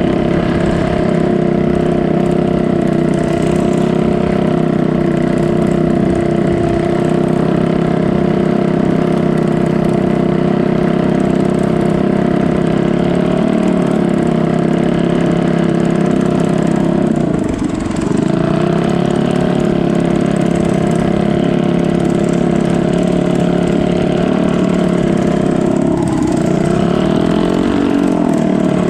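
Boat engine running steadily, its note dipping briefly twice, about two-thirds of the way through and again near the end.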